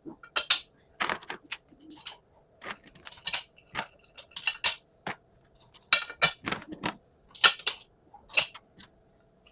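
Irregular metallic clinks and knocks of tools and metal parts being handled while an AD-9 air brake dryer is worked on, about a dozen sharp hits spread unevenly, over a faint steady hum.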